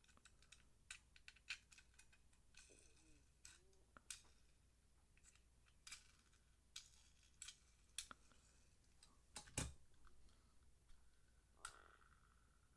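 Faint, scattered clicks and taps of small die-cast toy cars being handled and set down, the loudest knock about nine and a half seconds in.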